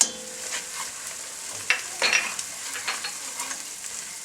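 Onions and ginger sizzling in a frying pan while being stirred, with a few sharp clicks and scrapes of the spoon against the pan.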